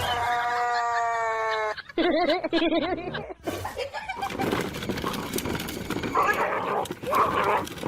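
An animal's long drawn-out call, held and slowly falling in pitch. It is followed by a shorter wavering, warbling call, then a noisier jumble of sounds.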